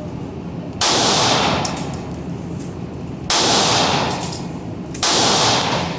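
Three 9mm handgun shots fired close by, spaced a couple of seconds apart, each a sharp crack with a long echoing decay.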